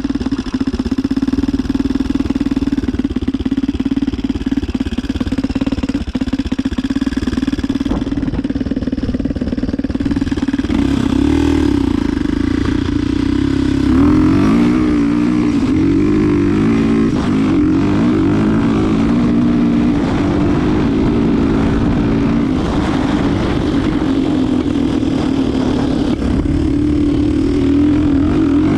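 Yamaha DT 125 motorcycle running on a swapped-in Diabolini 250 cc four-stroke engine. Its tone holds steady, then rises and falls several times between about 11 and 17 seconds in before settling again.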